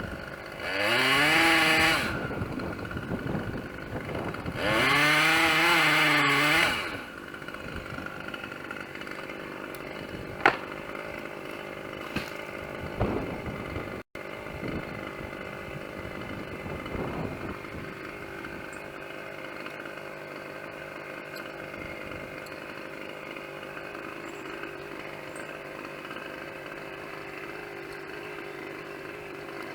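Chainsaw revved to full throttle twice, the first burst over a second long with its pitch climbing, the second about two seconds long, then dropping back to a steady idle. A few sharp knocks sound near the middle.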